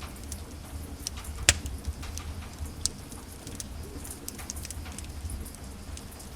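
Wood fire burning in a fireplace, crackling with scattered irregular snaps over a low steady rumble; one sharp loud pop about a second and a half in and a smaller one near three seconds.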